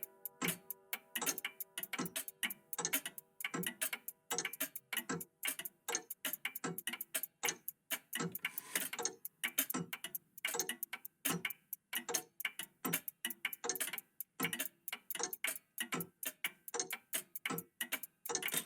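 Several old mechanical clocks ticking together, their ticks overlapping into an uneven clatter of several ticks a second.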